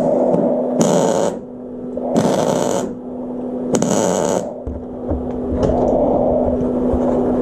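Arc welding in short bursts, three in a row, each well under a second, laying down stitch welds, over a steady electrical hum.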